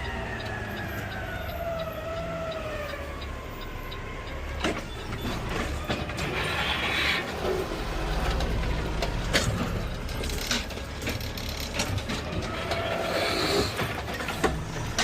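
CNG Peterbilt 520 garbage truck running, heard from the cab: a whine that falls in pitch over the first few seconds, a hiss about six seconds in, and several sharp knocks.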